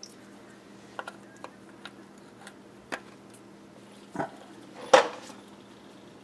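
Scattered light clicks and metal clanks of hand tools and parts being handled, about eight in all, the loudest a sharper clank about five seconds in, over a faint steady hum.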